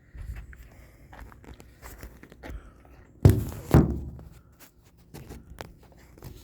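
Footsteps of a person walking, with scattered light knocks and two heavy thuds a little over three seconds in, about half a second apart.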